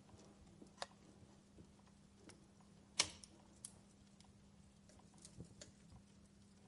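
Faint wood fire crackling: scattered irregular pops and snaps, the loudest about three seconds in, over a faint steady hum.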